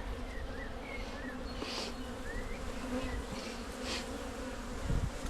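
Honey bees from an open hive buzzing steadily, with many drones among them. A few short rustles come through, and there is a low thump near the end.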